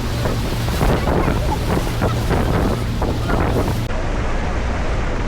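Wind buffeting the microphone on the deck of a tour boat, over a steady low rumble of the boat and rushing water. A high hiss cuts off about four seconds in.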